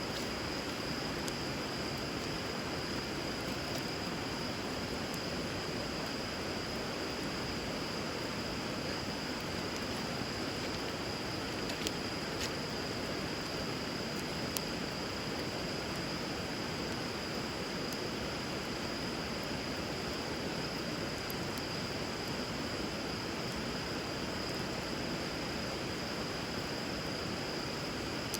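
Steady rush of river water flowing around a bonfire built on the water, with a few sharp crackles from the burning wood near the middle, over a steady high-pitched whine.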